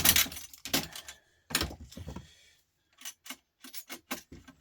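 Small metal parts and hand tools clinking and knocking while a record player is taken apart by hand: a few knocks in the first two seconds, then a quick run of short, sharp clicks.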